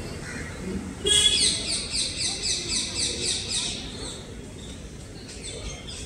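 A bird calling: a rapid series of about nine high, down-slurred notes, starting suddenly about a second in and fading after about three seconds, with a fainter brief call near the end. Steady low background noise runs underneath.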